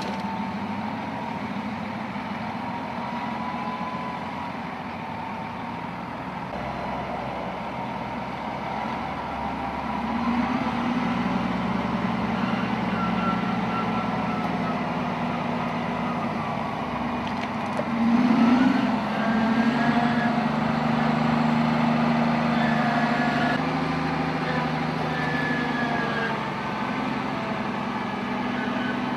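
Heavy construction machine's engine running, a steady low drone that grows louder about ten seconds in and surges briefly at about eighteen seconds.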